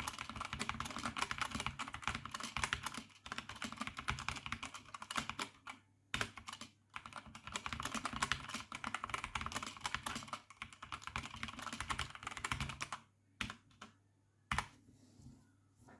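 A+ K77W keyboard being typed on quickly, in runs of clattering keystrokes a few seconds long with short pauses, ending with a few single key presses about three seconds before the end.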